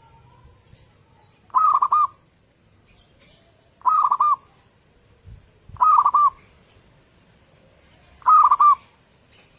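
Zebra dove (perkutut) cooing: four short, bubbly rolling coo phrases, about two seconds apart.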